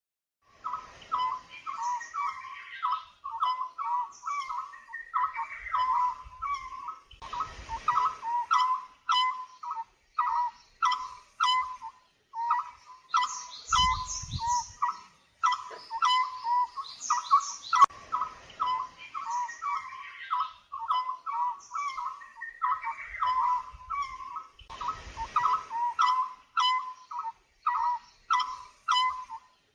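Birdsong: a rapid run of short, repeated chirping notes, with higher-pitched twittering over it, broken by a few brief low rumbles.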